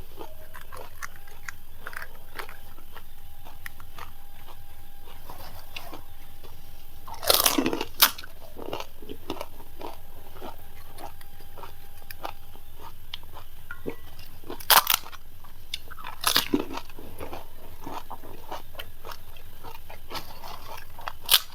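Panipuri being eaten: crisp, hollow puri shells cracking and crunching between the teeth, with chewing, and a few loud crunches about seven, fifteen and sixteen seconds in.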